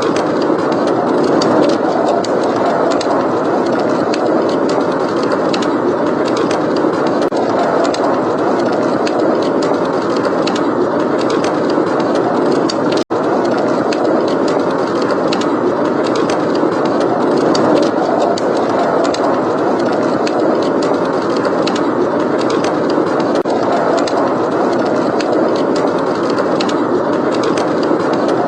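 Steady rush of blizzard wind with a wood fire crackling over it in scattered sharp pops. The sound cuts out for an instant about halfway through.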